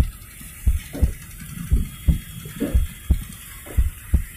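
Train wheels knocking over the rail joints in paired beats, roughly once a second, over the steady rumble of the moving train.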